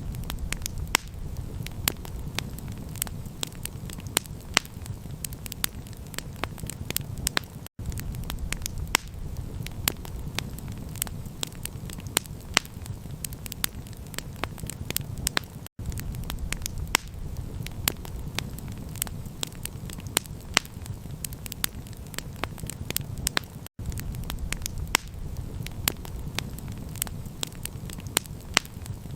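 Campfire crackling: many sharp pops and snaps over a steady low rumble. The sound cuts out for an instant about every eight seconds.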